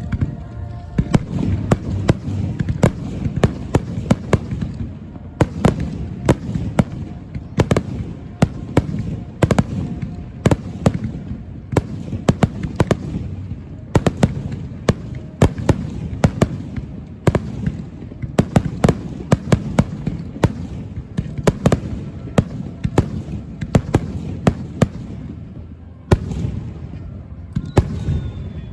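Aerial fireworks bursting in rapid succession: many sharp cracks over a continuous low rumble of booms, with a short lull near the end.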